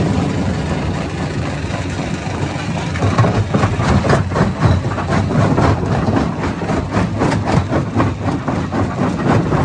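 Hammer-type stone crusher running under load, with a dense rattle of rapid knocks as rocks are struck and broken, starting about three seconds in.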